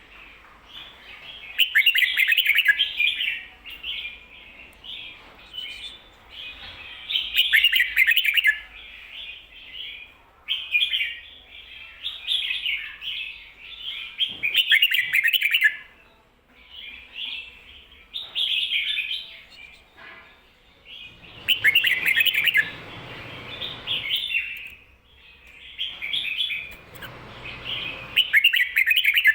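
Red-whiskered bulbul singing its 'ko-ta-ra' song, short phrases of quick chirpy notes following one another every second or two. Phrases come doubled, the repeated style keepers call 'berl'.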